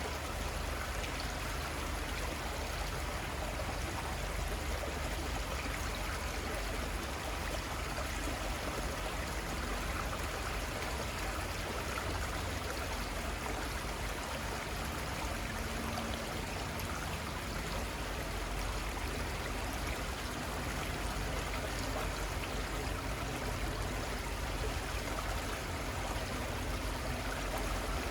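Steady flowing water of a small river, a continuous rushing and trickling with a low rumble underneath.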